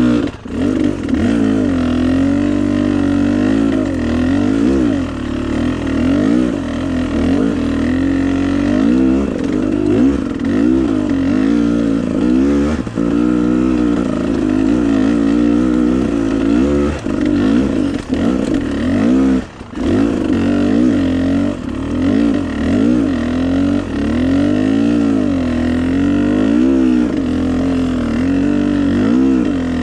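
Dirt bike engine on a trail ride, its revs rising and falling constantly as the throttle is worked, with a brief cut in power just after the start and again about two-thirds of the way through.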